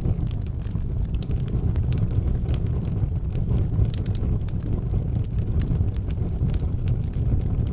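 Wood fire burning in an outdoor fireplace, crackling with many small sharp pops over a steady low rumble.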